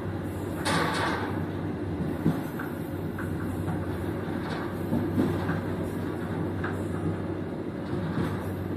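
Argo Cheribon passenger train running along the line: a steady rumble of wheels on track, with scattered sharp clicks and knocks, the loudest about a second in.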